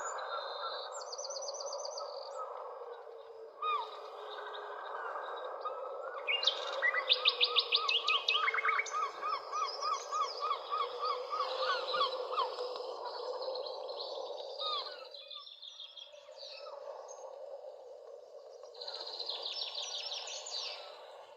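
Several birds singing outdoors, with high trills and, in the middle, a run of repeated chirps about four a second, over a steady background hiss.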